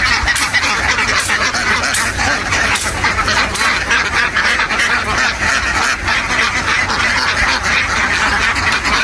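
A large flock of ducks quacking all at once, a dense continuous din of overlapping calls, with a low rumble underneath.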